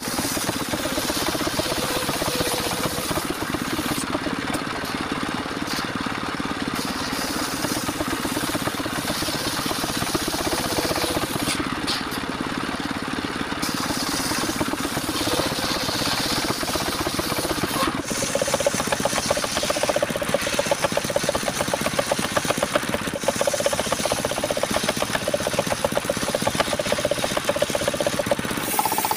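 Engine of a mobile circular sawmill running steadily with a fast, even knocking beat; its note shifts about 18 seconds in.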